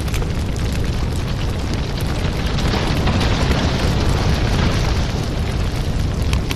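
Firewood burning: a steady low rumble of flames with many sharp crackles and pops. A louder rushing hiss swells up about two and a half seconds in and dies back near the end.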